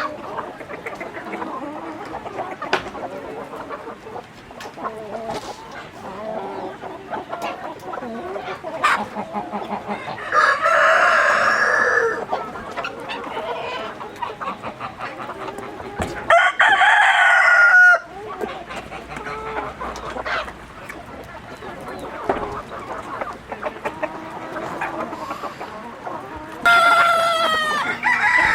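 A flock of chickens clucking steadily, with a rooster crowing three times, each crow lasting about two seconds.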